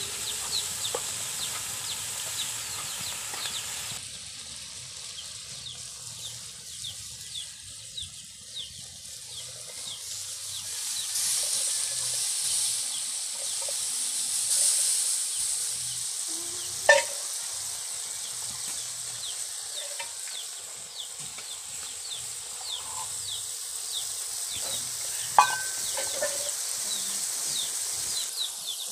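Food frying in a steel wok over a wood fire: a steady sizzling hiss with small crackles. Two sharp knocks on the pan, one about midway and one near the end.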